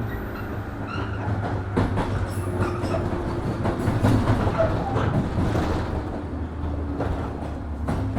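JR 103 series 1500 electric commuter train heard from inside the car while running, with a steady low hum and a few sharp clicks of the wheels over rail joints.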